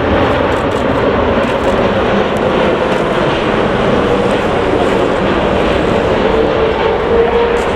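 Jet airliner engines running loud and steady, a broad rushing noise with a droning tone that grows stronger near the end.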